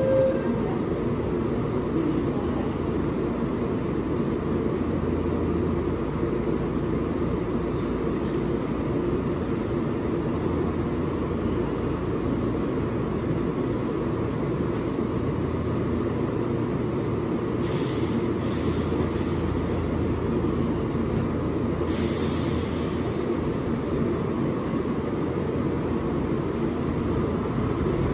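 Keihan 1000 series electric train standing at a platform with its on-board equipment running steadily. Two short bursts of compressed-air hiss come about two-thirds of the way through, and near the end a rising tone begins as the train starts to pull away.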